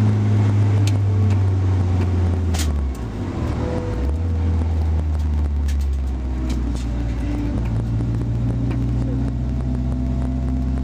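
Car engine heard from inside the cabin, running at steady revs; about three seconds in, just after a sharp click, the engine note drops to a lower pitch and then holds steady.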